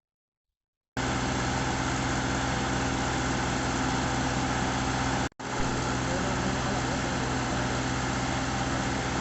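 Ford 5000 tractor engine, freshly rebuilt with new cylinder sleeves and pistons, running steadily. It cuts in suddenly about a second in and drops out for an instant a little past the middle.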